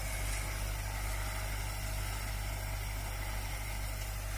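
Tractor engine running steadily while mowing, heard at a distance as an even, unchanging drone.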